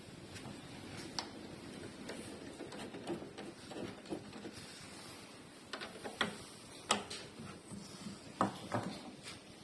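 Scattered light clicks and knocks of hand work on car parts, a few at first and then a cluster in the second half, the sharpest about seven seconds in.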